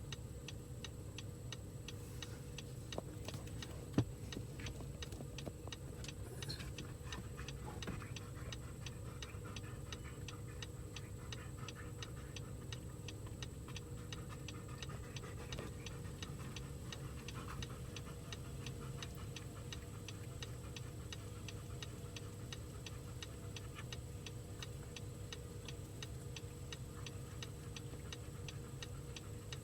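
Insects: a steady high-pitched drone with an even ticking, about three to four ticks a second, over a low rumble. One sharper click comes about four seconds in.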